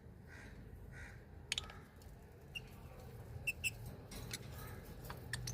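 Small birds calling: a few soft, rounded calls in the first second, then short high chirps mixed with sharp clicks and taps, over a steady low hum.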